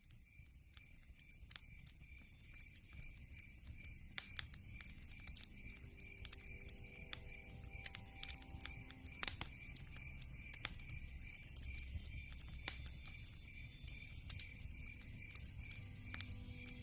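Campfire crackling, with sharp irregular pops over a low rumble. Behind it, a high chirp repeats evenly about two to three times a second.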